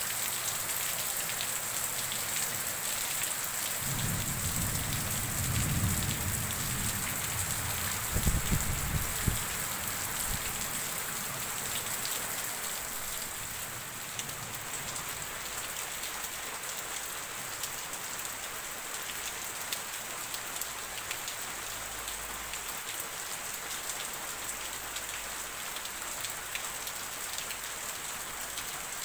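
Steady rain falling on roofs and foliage, an even hiss throughout. About four seconds in a low rumble rises under it and lasts some six seconds, with a few sharper thumps near its end.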